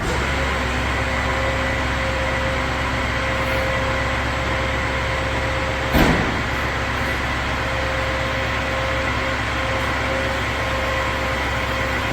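Rollback tow truck's engine running steadily, with a single sharp knock about halfway through.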